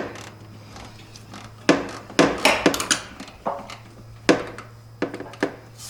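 Hand tools clinking and knocking against each other and on metal, a string of separate sharp knocks with a quick cluster of them a couple of seconds in.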